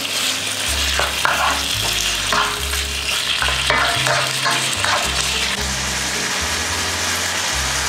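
Raw chicken pieces sizzling in hot butter in a wok, stirred and scraped with a spatula several times in the first few seconds. A background music bass line runs underneath.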